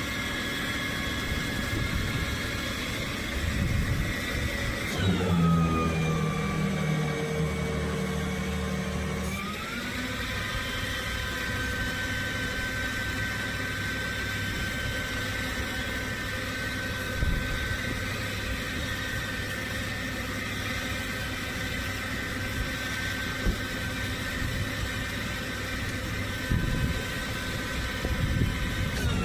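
Flatbed tow truck running with a steady mechanical whine over its engine. The whine's pitch drops about five seconds in, then climbs back a few seconds later and holds steady.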